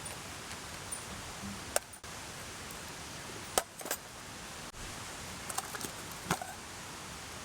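Steady rush of a mountain stream, with a few sharp clicks and taps of cookware, the loudest about two seconds and three and a half seconds in, and a quick run of lighter ones near the end.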